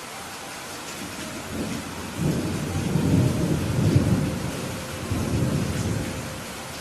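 Steady rain with a rolling rumble of thunder that builds about a second and a half in, is loudest through the middle, and dies away near the end.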